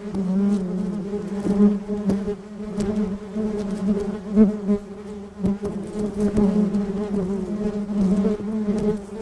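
Honeybees buzzing at flowers: a steady wingbeat hum that swells and fades as the bees move, with a few brief clicks.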